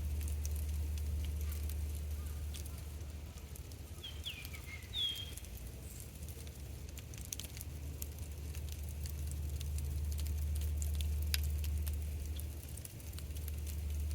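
Rain starting to fall: scattered raindrops ticking and pattering over a steady low rumble, with a brief high chirp about four seconds in.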